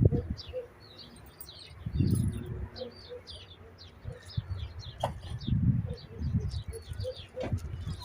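Small birds chirping in many quick high notes throughout, with a faint, evenly repeated lower note. Several louder low, muffled rumbles or thuds come about two seconds in and again in the second half.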